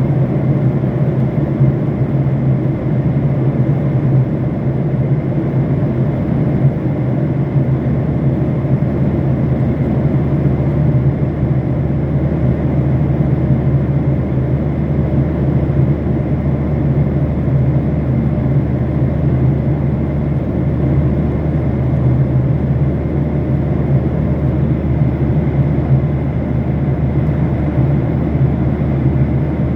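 Aircraft cabin noise in flight: a loud, steady drone of engines and airflow, strongest in a low hum, with no break.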